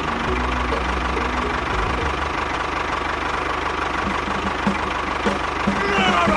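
A small engine idling steadily, with a rapid, even chugging pulse.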